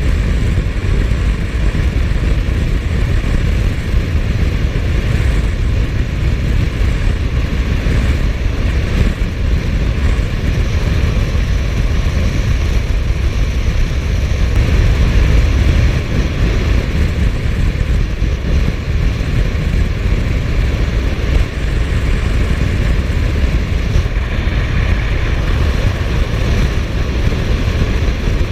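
Steady wind rush and road noise on a motorcycle-mounted microphone while riding at speed, with the Suzuki GSF1250S Bandit running underneath.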